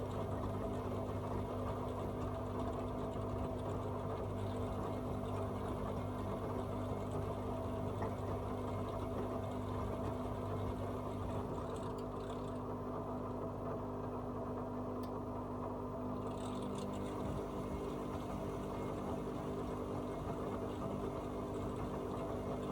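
AEG Öko-Lavamat 74780 washing machine running mid-cycle, its motor giving a steady hum with a wash of water noise. The low hum weakens a little after about twelve seconds.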